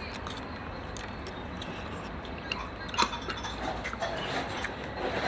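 Metal cutlery clinking against a noodle bowl a few times, the sharpest clink about three seconds in, over steady low background noise.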